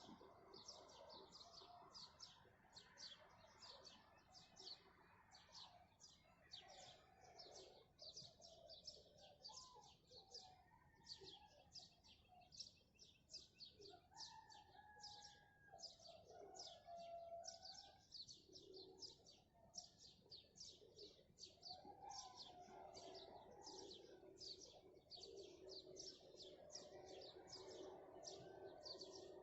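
A dawn chorus of many birds, faint: a dense, unbroken run of quick high chirps, with lower, longer calls coming and going underneath.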